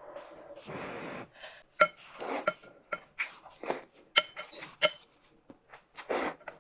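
Tableware being handled: a string of sharp clinks with a short ring, like utensils against bowls and glass, mixed with short rustling bursts of handling.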